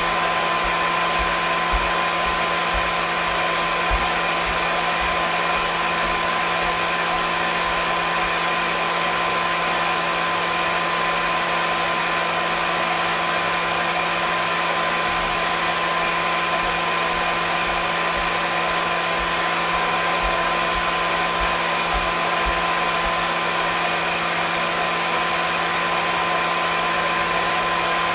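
Hair dryer running continuously: a steady airy hiss with a constant motor hum and whine that never changes in pitch or level.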